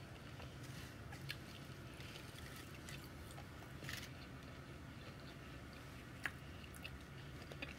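A person quietly chewing a bite of crispy fried taco with mouth closed: soft wet mouth clicks and smacks scattered through, with a sharper click about six seconds in, over a low steady hum.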